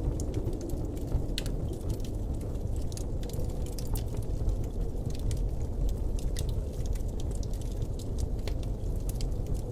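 Blizzard wind ambience: a steady, low rushing of wind, with many faint, irregular crackles and ticks scattered through it.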